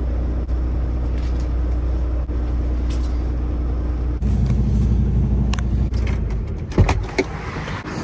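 Semi truck's engine running with a steady low rumble. The rumble shifts about four seconds in and cuts off about six and a half seconds in, followed by a couple of sharp knocks.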